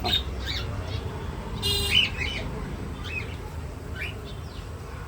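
Budgerigars chirping: a run of short, quick chirps, several sweeping upward, with one louder, harsher call about two seconds in.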